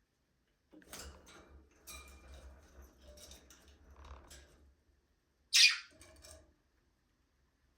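Budgerigars chattering and chirping in fits, then one loud, short squawk about two-thirds of the way through.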